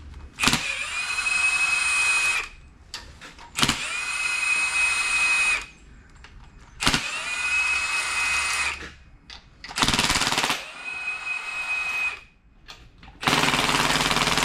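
Impact wrench hammering on bolts during an LS engine teardown, in five bursts of about two seconds each with short pauses between, a steady whine under the hammering. The gun is set on its lowest power setting.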